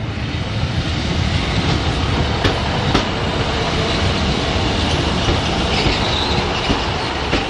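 A Class 150 diesel multiple unit running into the platform: a steady low rumble with a few sharp clicks of wheels over rail joints, and a faint high wheel squeal about six seconds in.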